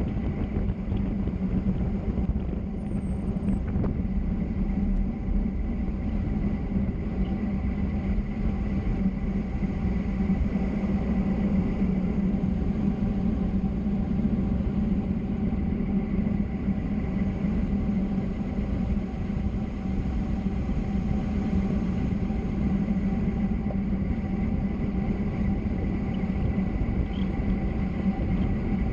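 Steady road rumble of travel down a mountain road, with a low steady hum beneath it and no break or change.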